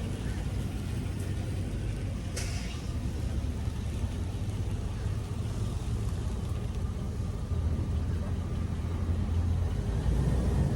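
Vehicle engine running as it is driven slowly closer, a steady low rumble that grows louder in the last few seconds, with a brief hiss about two and a half seconds in.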